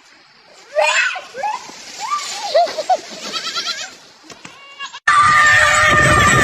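An animal's cries: a series of short calls that rise and fall in pitch. About five seconds in, the sound cuts abruptly to a loud, noisy passage with two steady tones in it.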